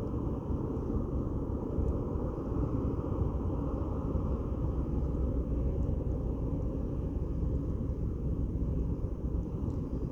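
Steady low rumble of a ferry's engines as the ship comes into port.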